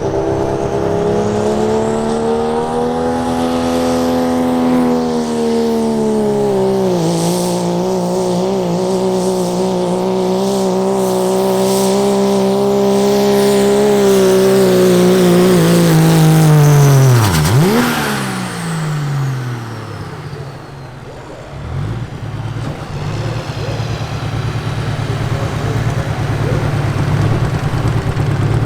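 Diesel pickup truck pulling the sled at full throttle, its engine note held high and steady for about sixteen seconds, then dropping away sharply as the throttle is let off at the end of the pull. The engine then runs at a lower, quieter note.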